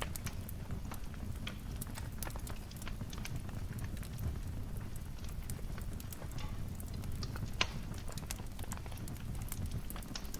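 Wood fire crackling in a fireplace: frequent sharp pops and snaps over a steady low rumble, with one louder pop about seven and a half seconds in.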